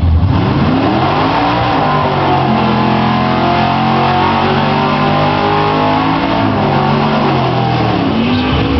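406 cubic-inch Chevy V8 in a Camaro drag car revving up and held at high rpm during a tyre-smoking burnout. Near the end the revs drop, followed by a short rising blip of the throttle.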